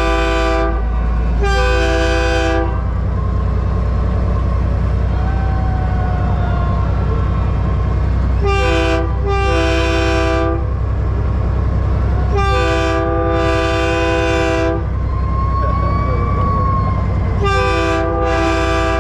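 A truck's train-style air horn sounds several notes at once in blasts, mostly in pairs of a short and a longer blast, four or five times, over the steady low rumble of a diesel truck engine.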